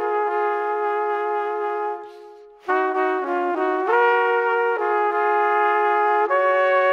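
Background music of slow held chords in a brass-like timbre, with a short break about two seconds in.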